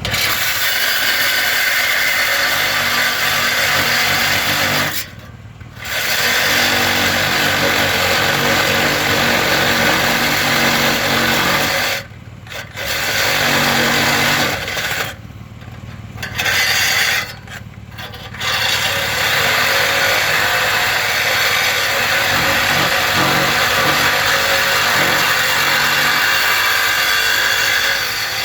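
Power tool cutting through a truck's steel exhaust pipe, running in long stretches and stopping briefly four times.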